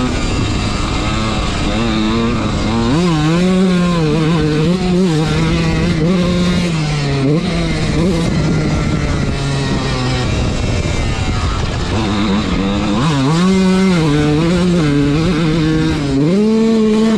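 Dirt bike engine revving up and down as it is ridden, the throttle opening and closing over and over. The engine note drops away for a couple of seconds past the middle, then comes back.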